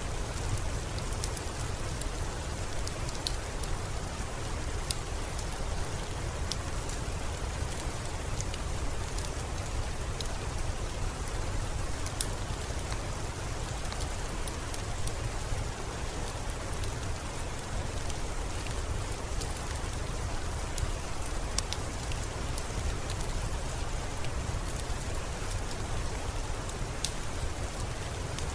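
Steady rainfall with a low rumble under it, dotted with scattered sharp pops and crackles from a wood fire.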